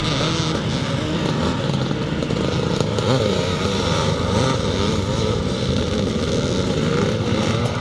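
Several vintage twinshock two-stroke motocross bikes racing round the track, engines revving up and down, the pitch wavering as the riders work the throttles.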